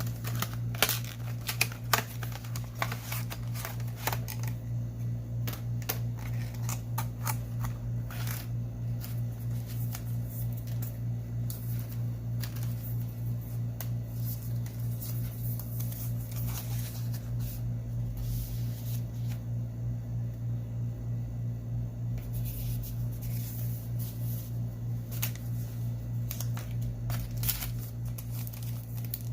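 Steady low hum with scattered small clicks and taps of objects being handled on a work surface.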